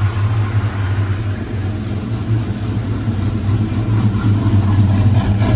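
Freshly built supercharged 416 cubic-inch V8 idling on its first warm-up run, a steady, slightly uneven rumble that grows a little louder near the end.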